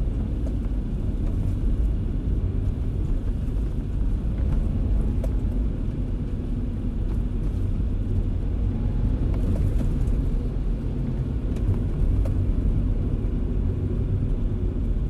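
Car driving in the rain: a steady low rumble of road and engine noise, with faint scattered ticks of raindrops over it.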